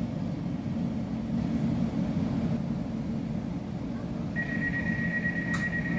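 Inside a Bombardier Class 345 electric train running through a tunnel: a steady low rumble from the wheels and running gear. About four seconds in, a steady high-pitched whine sets in, and there is a single click shortly before the end.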